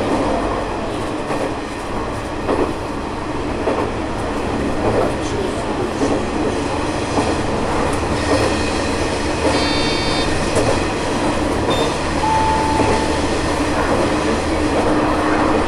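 Diesel railcar running along the track: steady engine and wheel noise with a clack over the rail joints about every second. A brief high tone sounds about ten seconds in, and a short lower one a couple of seconds later.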